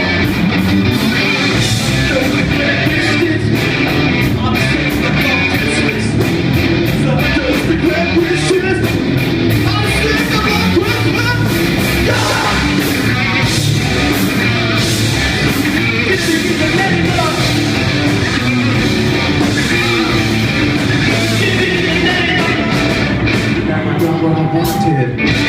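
Live heavy metal band playing loud distorted electric guitars, bass and drums, with shouted vocals.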